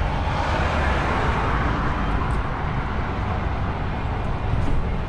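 DAF XF truck driving in town: a steady low engine drone with tyre and road noise, and a swell of hiss in the first two seconds.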